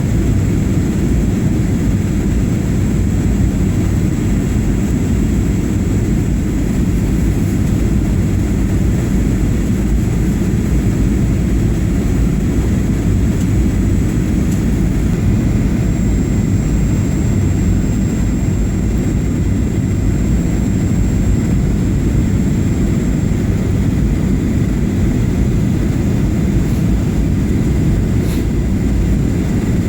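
Steady cabin noise of a Boeing 737-800 in flight: an even, loud low rumble of its CFM56 jet engines and airflow, with a faint steady high whine above it.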